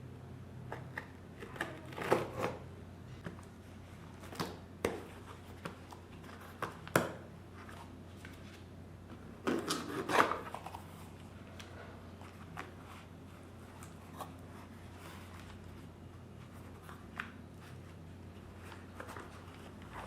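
Scattered handling noises: sharp clicks and taps with short rustling clusters, the loudest about two seconds in, at seven seconds and around ten seconds, over a steady low hum.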